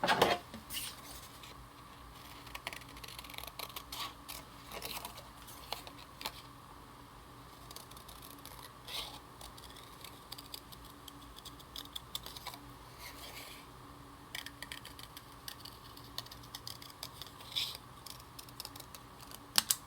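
Scissors cutting out a small piece of cardstock: quiet, irregular snips with short pauses between them.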